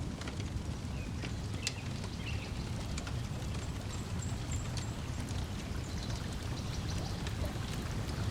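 Wood fire crackling, with many small sharp pops, over a steady low wash of lake water lapping, and a few brief bird chirps.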